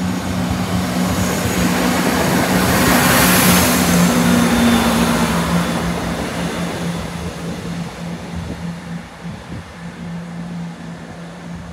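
East Midlands Railway Class 170 Turbostar diesel multiple unit passing over a level crossing. Its noise builds to a peak about three to four seconds in and then fades away, over a steady low hum.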